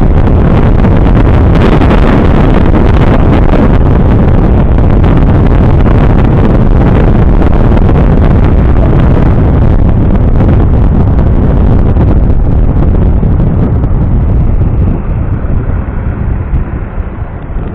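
Heavy wind buffeting on the microphone of a moving motorcycle, mixed with engine and road noise. It eases and turns choppier about fifteen seconds in.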